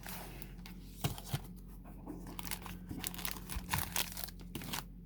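Plastic wrappers of baseball card packs crinkling and tearing as the packs are handled and opened, in a run of short, irregular crackles.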